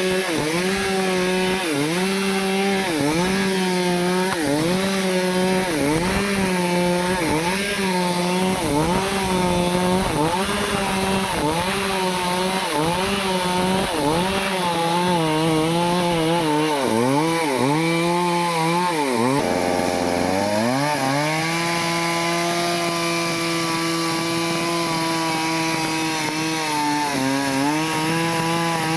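Stihl two-stroke chainsaw cutting into a teak tree, its engine pitch dipping about once a second as the chain bogs in the wood. Near the two-thirds mark the revs drop sharply, then climb back and hold steadier and higher.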